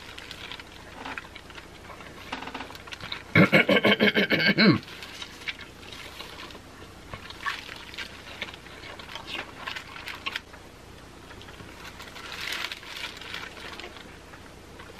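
Wet mouth sounds of sucking and chewing sauce-coated king crab leg meat: soft smacks and slurps throughout. About three and a half seconds in comes a loud, rapidly pulsing hummed moan, lasting a second and a half.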